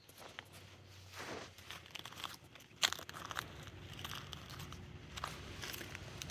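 Close crackling, crunching and rustling from movement near the microphone, irregular, with one sharp click a little under three seconds in.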